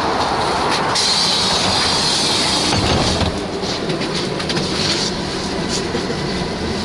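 Interior running noise of a VMZ-5298.01 trolleybus: a steady electric-traction drone and road noise, with a high hiss rising over it about a second in and fading at about three seconds.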